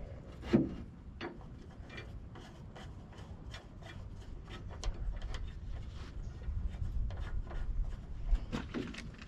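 Hand tools working on the loader's metal cover bolts: a run of light, irregular clicks and clinks, with one louder knock about half a second in.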